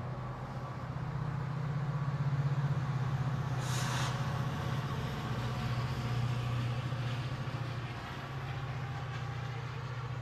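MARC commuter train with a steady low drone, and a short burst of hiss about four seconds in.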